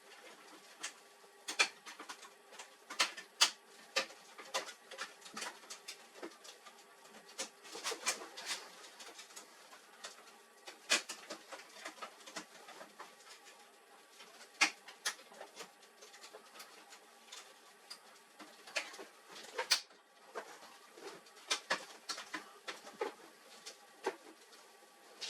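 Irregular clicks and light knocks, as of plastic and metal printer parts being handled and fitted, over a faint steady hum.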